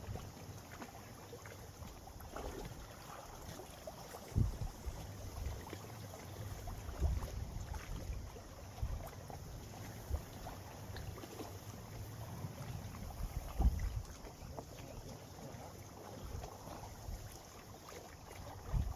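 Wind buffeting the microphone in uneven gusts, a low rumble that swells several times over a faint steady hiss of wind and water.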